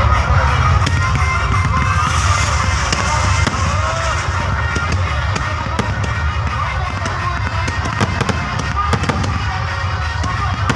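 Fireworks going off with many sharp cracks and pops, and a hiss about two to four seconds in, over loud background music with a heavy bass and voices.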